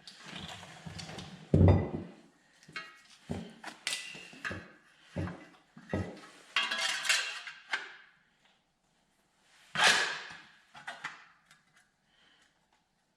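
Metal parts knocking and clanking as a wheel hub bearing assembly and its shield are slid onto the truck's steering knuckle. A heavy thump comes a little under two seconds in, followed by a string of lighter knocks, and a single sharp metallic clank near ten seconds.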